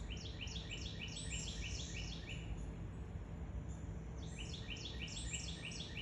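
A songbird singing two runs of quickly repeated chirping notes, about four a second, the second run starting a little past the middle, over a low steady outdoor background noise.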